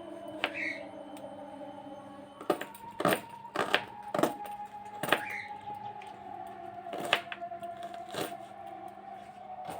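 A series of sharp knocks and clinks of hard objects being handled, about nine irregular strikes, a couple with a brief ring. Faint steady tones run underneath.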